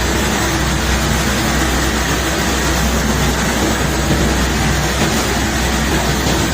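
Barge unloading machinery running steadily: a low engine hum under an even, continuous noise, with no separate knocks standing out.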